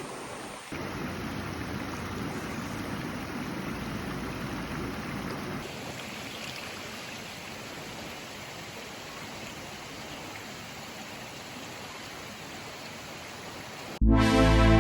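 Steady rushing of flowing water, like a stream, changing character slightly a couple of times. Loud music cuts in suddenly near the end.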